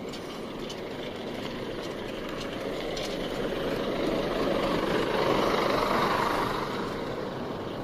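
A motor vehicle passing, its engine and road noise growing louder to a peak about five to six seconds in, then fading.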